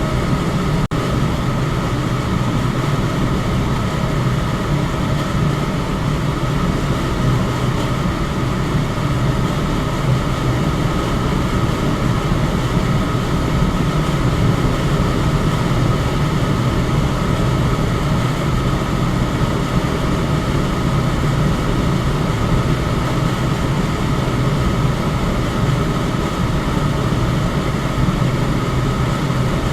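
Electric fan running steadily: an even rush of air with a strong low hum and a faint steady tone above it. There is a momentary dropout about a second in.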